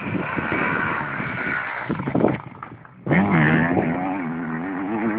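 Motocross bike engine revving hard, the pitch rising and falling. It drops away about two and a half seconds in, then a bike revs up loud again about three seconds in.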